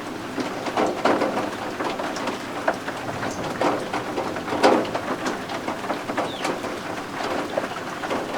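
Steady rain with pattering drops, and a few short, high calls from baby guinea fowl keets.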